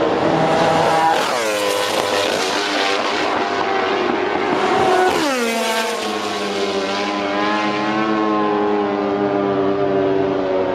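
MotoGP racing motorcycles running flat out and passing by, the engine note dropping sharply in pitch as each one goes past, twice. After the second pass a steady, high engine note carries on.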